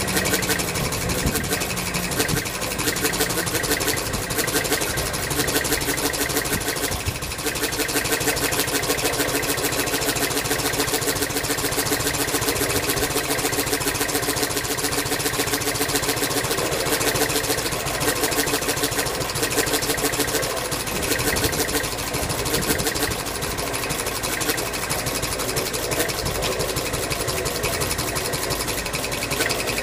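Home-built engine running steadily with a rapid, even beat while it drives a washing-machine motor converted to an alternator under an electric lamp load.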